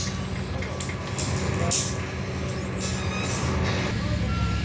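Heavy diesel engine running steadily, with short hisses of released air about two seconds in.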